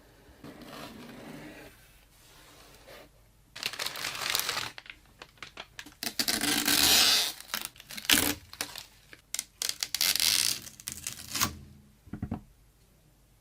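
Packaging being torn open and crinkled by hand, in bursts of tearing and rustling with sharp clicks, starting faintly and growing loud from a few seconds in, then stopping near the end.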